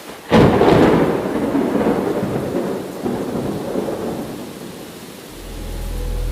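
A thunderclap breaks sharply and rolls off into a long fading rumble over steady rain. A low steady hum comes in near the end.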